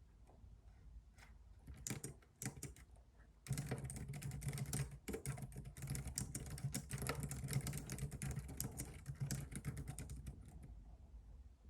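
Typing on a computer keyboard: a few scattered keystrokes, then a fast, continuous run of typing from about three and a half seconds in that slackens near the end.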